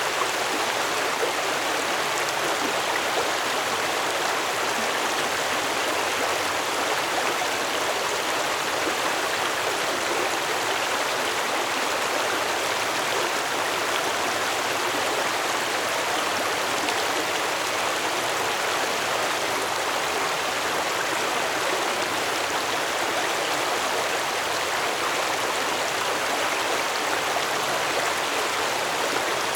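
Stream water flowing, a steady rushing babble with no change.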